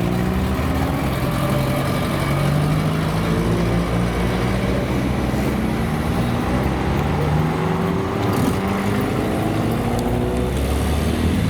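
Car engine running at low revs, its pitch drifting gently up and down with no hard revving.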